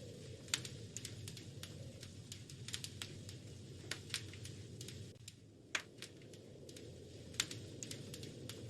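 Wood fire crackling in a fireplace: irregular sharp pops and snaps over a steady low rumble. A few louder pops come about half a second in, just before the six-second mark and about seven and a half seconds in.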